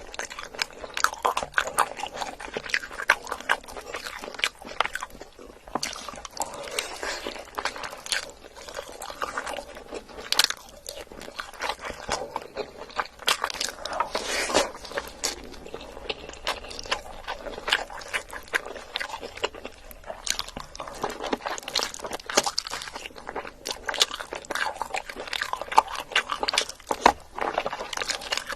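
Close-miked eating: steady chewing and wet mouth clicks, with irregular crunchy bites.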